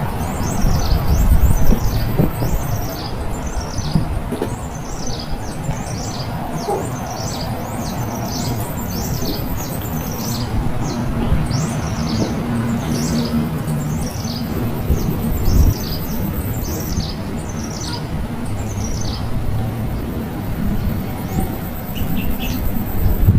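A small bird chirping over and over: short, high, down-slurred chirps, about two a second, that stop about 19 seconds in. A steady low rumble runs underneath.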